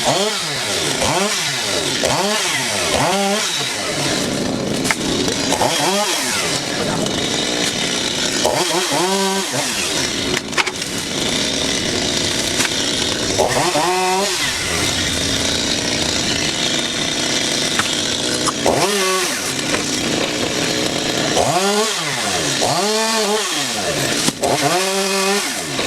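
Chainsaw running at high revs while cutting wood, its engine pitch repeatedly rising and falling as the throttle is worked.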